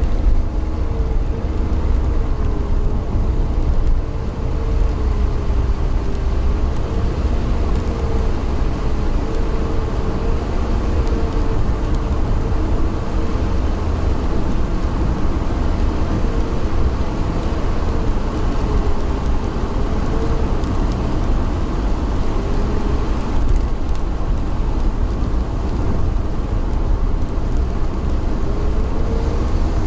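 Steady rumble of a moving vehicle heard from inside, with a faint engine whine that wavers in pitch and fades in and out.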